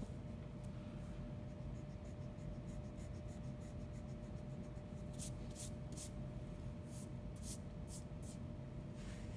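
Pencil scratching on paper as lines are drawn, in a series of short strokes with a quick run of several in the second half, over a faint steady hum.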